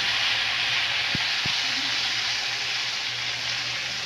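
Spiced potato slices sizzling in hot oil with a mustard and cumin tempering in a kadhai, a steady hiss that slowly fades, with two faint pops a little after a second in.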